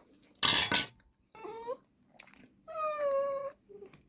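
A begging pet whining for food: a short whine that bends upward, then a longer, slightly falling whine. A loud, short noisy burst comes about half a second in, before the whines.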